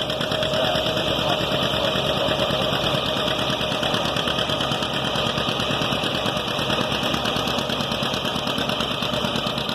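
John Deere 60 tractor's two-cylinder engine running steadily under the load of a tractor pull, with a fast, even pulsing beat.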